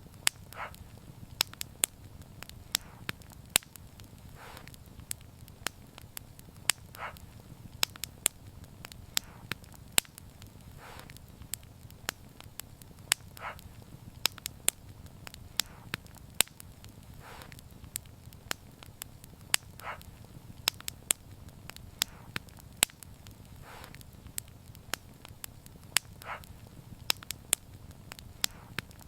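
Wood fire crackling: frequent sharp pops and snaps over a low, steady rumble of burning, with soft puffs recurring about every two seconds.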